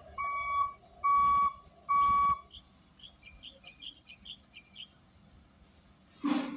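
Birds calling: three loud, flat-pitched whistled notes about half a second each, then a run of soft, short high chirps. A brief thump near the end.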